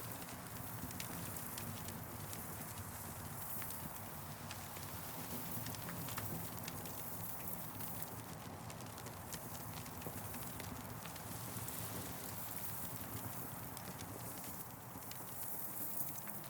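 Campfire crackling: irregular small pops and snaps over a steady hiss.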